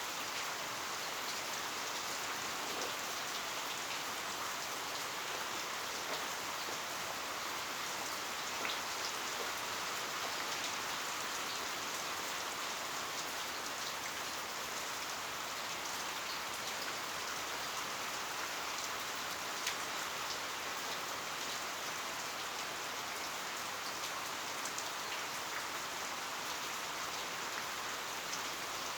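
Heavy rain falling steadily, a constant hiss with scattered sharper ticks of individual drops hitting surfaces.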